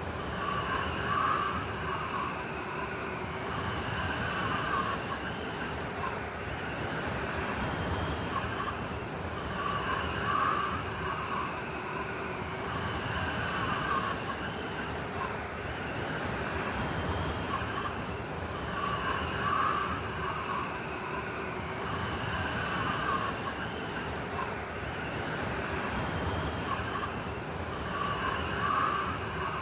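Blizzard wind ambience: a steady rushing roar with whistling, wailing gusts that come back about every nine seconds, the pattern of a looped recording.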